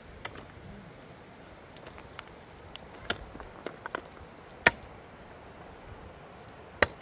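Irregular sharp clicks and knocks, with two loud ones about five seconds in and near the end, over a steady faint hiss.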